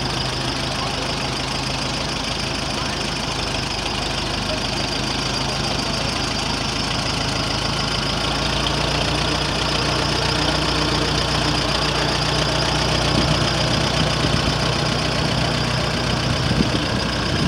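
Restored 1951 Farmall tractor's engine running steadily and smoothly, getting a little louder about halfway through.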